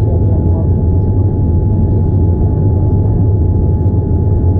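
Steady low rumble of airliner cabin noise aboard a Boeing 787-9, with a thin steady hum above it.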